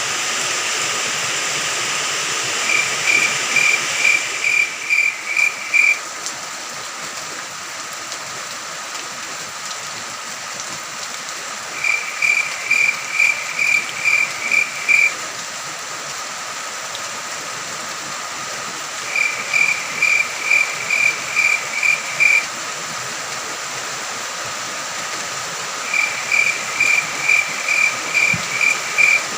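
Steady rain with a cricket chirping in four runs of about eight quick pulses each, a few seconds apart. A thin, steady high-pitched insect drone runs underneath.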